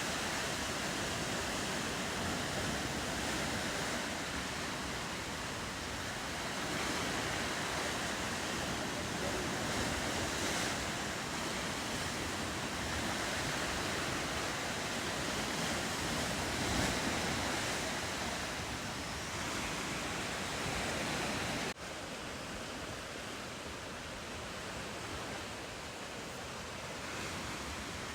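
Ocean surf washing steadily against the coast, with wind on the microphone. The sound cuts abruptly about three quarters of the way through and then goes on a little quieter.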